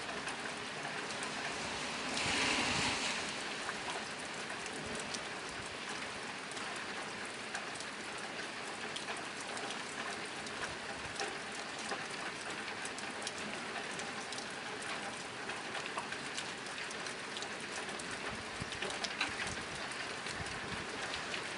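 Steady rain pattering on a tin roof, a dense hiss with many distinct drop ticks. About two seconds in it swells louder for roughly a second.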